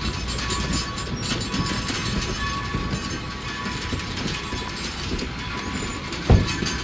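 Train cars rolling on the rails with a steady rattle and many small clanks, and one loud thump about six seconds in.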